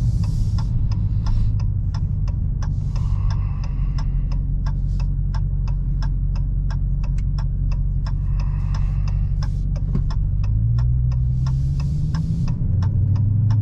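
Turn-signal indicator ticking evenly in the cabin of a 2022 Dodge Challenger Hellcat, over the low hum of its supercharged 6.2-litre V8 at low speed. About ten seconds in, the engine note rises as the car accelerates.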